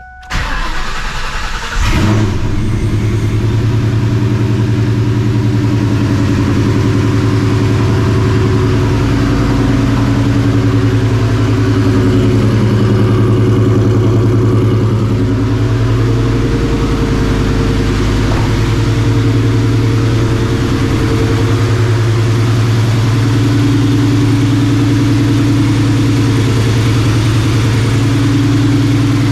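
Vortech-supercharged 4.6-litre two-valve V8 of a New Edge Mustang GT being started: it catches about two seconds in, then idles steadily through long-tube headers, a catless X-pipe and a Borla ATAK cat-back exhaust.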